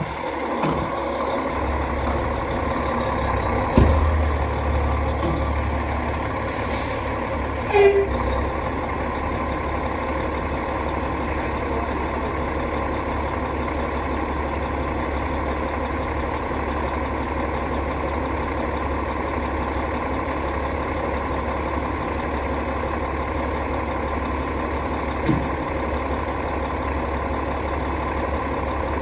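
HVAC rooftop unit running with a steady low hum and drone. There are two short knocks about four and eight seconds in and a faint click near the end.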